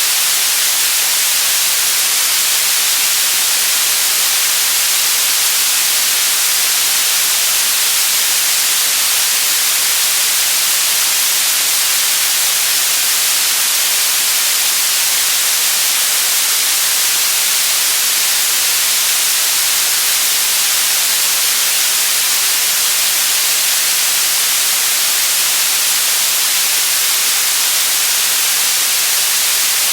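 Steady white noise: an even, unchanging hiss, strongest in the high range, with no tones or breaks.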